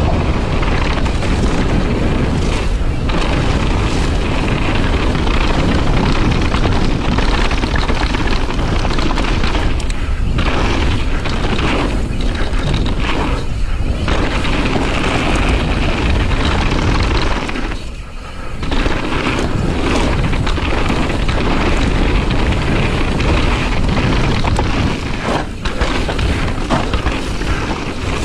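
Heavy wind noise buffeting the microphone while riding a bicycle, a dense low rumble that dies down briefly a few times, most clearly about two thirds of the way through.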